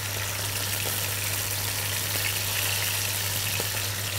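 Chicken breast frying in a little oil in a frying pan: a steady sizzle, over a steady low hum.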